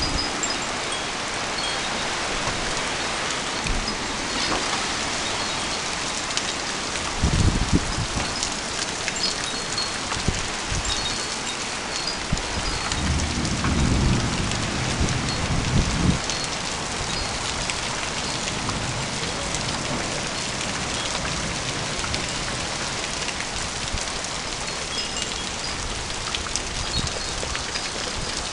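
Heavy rain pouring down steadily during a storm, with louder low rumbles about a quarter of the way in and again around halfway.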